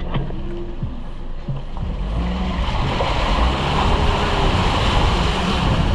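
Ocean surf washing in, with wind rumbling on the microphone; the wash grows louder about two seconds in.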